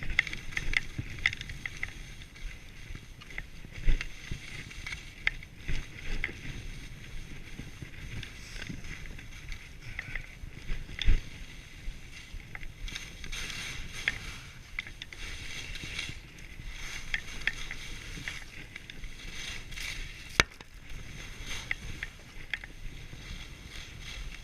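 Skis hissing and swishing through deep fresh powder snow in surging waves, with a few sharp thumps along the way and wind on the microphone.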